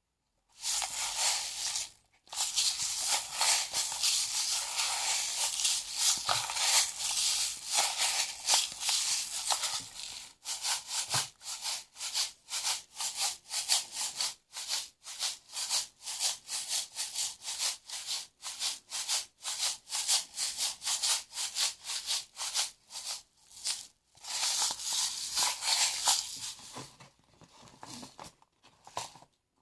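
Small beads rattling and clicking against each other in quick continuous bursts, like a shaker. It breaks off briefly a couple of times and turns fainter and sparser near the end.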